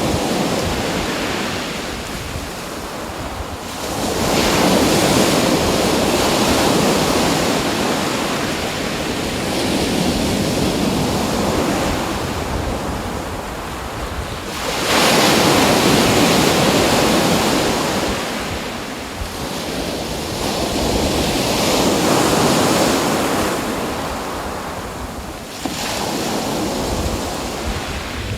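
Ocean waves breaking and washing up a shore, with a big surge about every eleven seconds that slowly fades away.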